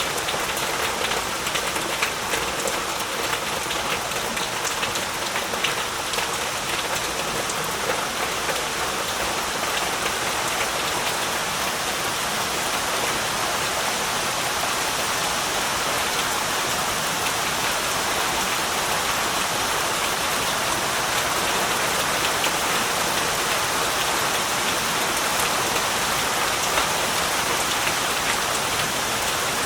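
Heavy rain falling steadily, a dense hiss of drops with many fine individual taps on surfaces.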